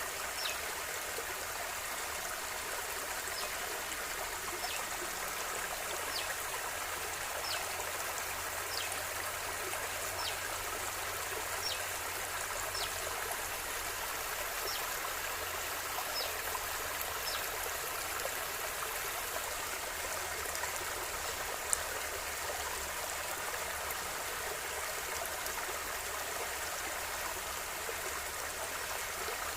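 River water flowing steadily, an even rushing and trickling. Over it, a series of short high notes, each dropping in pitch, comes about once a second through the first half or so, and there is a single sharp click about two thirds of the way in.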